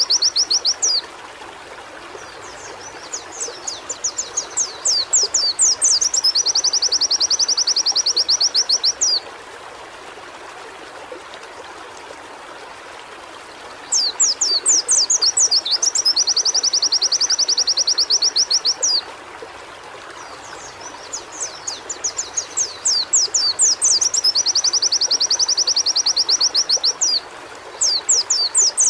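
White-eye (pleci) singing: long bursts of very fast, high-pitched repeated notes, each starting with spaced chirps that speed up into a dense trill lasting several seconds, with pauses of a few seconds between bursts. A steady hiss runs underneath.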